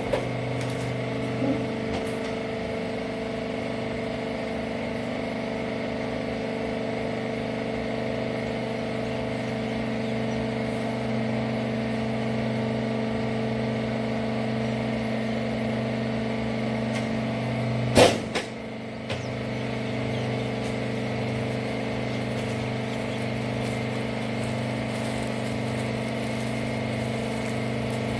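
Hydraulic rag baler's motor and pump running with a steady hum. About eighteen seconds in there is a loud knock, the hum briefly drops, and a smaller click follows.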